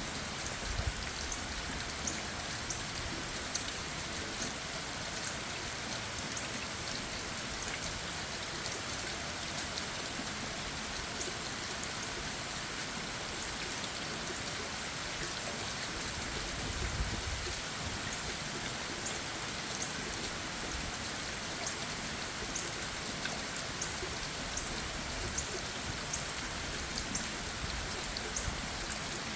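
Steady, gentle rain falling on leaves and the ground, with scattered individual drops tapping close by.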